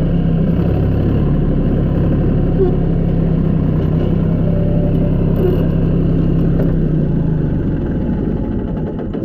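A vehicle engine running steadily at a constant pitch, fading down near the end.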